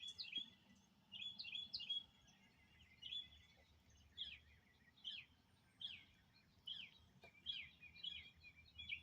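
Birds chirping faintly: short, high notes, many slurring downward, repeated about once a second.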